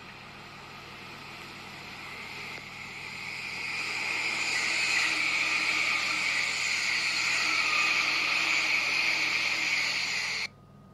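Electric express train passing through a station at speed without stopping: a rush of wheel-on-rail and air noise that builds over about four seconds, stays loud, then cuts off abruptly near the end.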